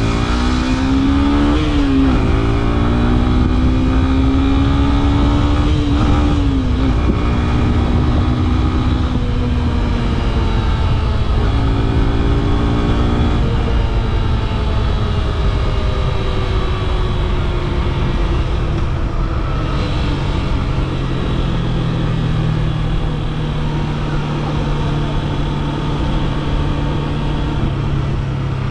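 Yamaha FZ S V3's 150cc single-cylinder engine on the move, its pitch rising as it accelerates and dropping sharply at gear changes about two seconds in and again about six seconds in. Later it holds a steadier, lower pitch, under a constant low rumble of wind and road noise.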